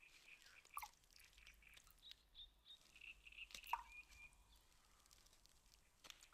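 Near silence: faint outdoor ambience with a few soft, short bird chirps and small clicks, the clearest a brief falling call nearly four seconds in.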